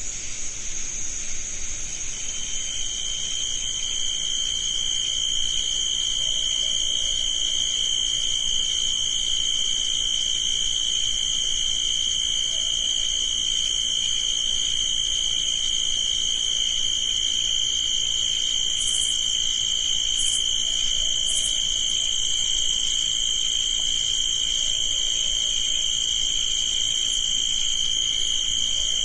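Crickets chirping in a steady, continuous chorus, with a second, lower-pitched trill joining about two seconds in. Three short, higher notes stand out briefly past the middle.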